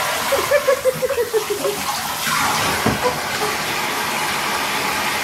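Steady rushing water, with a voice giving a quick run of short notes falling in pitch in the first second or so, and a single falling cry a little after two seconds.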